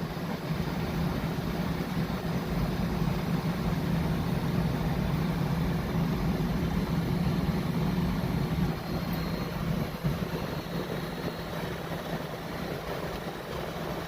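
LG Dual Inverter 14,000 BTU window air conditioner running at max capacity: the fan blows at full speed with a steady rush of air over the inverter compressor's hum.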